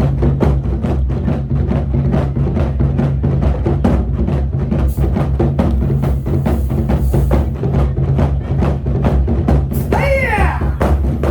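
Korean buk drums played in fast, steady strokes, about five a second, over a steady low backing tone, the rhythm depicting galloping horse hoofbeats. Near the end a brief cry wavers and falls in pitch over the drumming.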